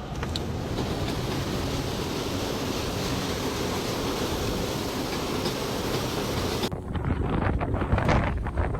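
Steady wind hiss, then after an abrupt change about two-thirds of the way in, uneven gusts of wind buffeting the microphone.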